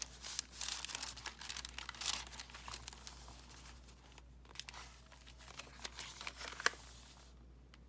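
Paper rustling and crinkling as the pages and loose paper pieces of a handmade junk journal are handled and turned, in irregular crackles. These are busiest in the first few seconds and thin out toward the end.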